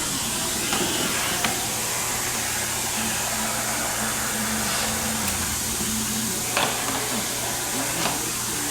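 Vacuum cleaner running steadily, with a few short sharp knocks against it about a second in, near the seven-second mark and near the end.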